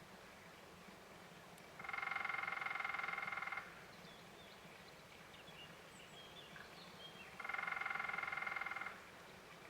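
A woodpecker drumming on resonant wood: two rapid rolls, each about a second and a half long, the second coming about four seconds after the first ends. Faint bird chirps are heard in between.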